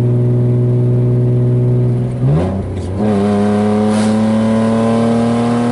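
BMW E36 325is 2.5-litre straight-six with a loud exhaust, cruising steadily, then a quick downshift about two seconds in and a full-throttle pull, the engine note rising steadily under load. It is heard from inside the car with the window down.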